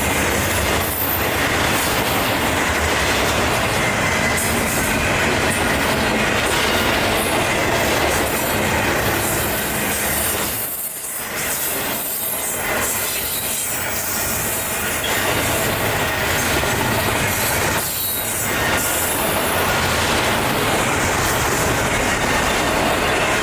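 Freight train cars rolling past at close range, the wheels clacking over rail joints and squealing. The noise is loud and steady, easing briefly about eleven seconds in.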